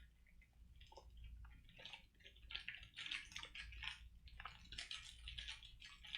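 Faint wet mouth sounds and small irregular clicks of a hard candy being sucked and knocked against the teeth, more frequent in the second half.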